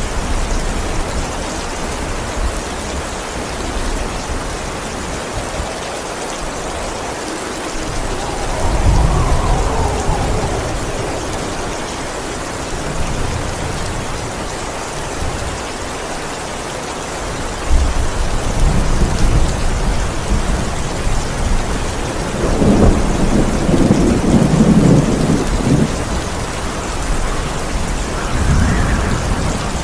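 Steady heavy rain with rolls of thunder rumbling over it several times: one about a third of the way in, and a longer, louder one about two-thirds of the way through.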